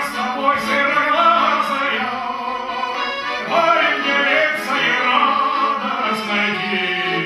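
Music: a song performed live, a man singing a slow melodic line over instrumental accompaniment.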